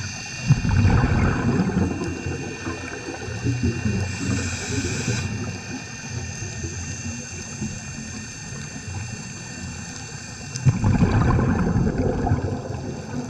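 A scuba diver's exhaled breath bubbling out of the regulator twice, a burst of rumbling, gurgling bubbles about half a second in and another near the end. Faint steady high-pitched tones run underneath throughout.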